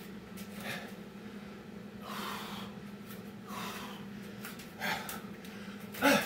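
A man breathing hard after exertion, in heavy gasping breaths about every second and a half, the loudest near the end.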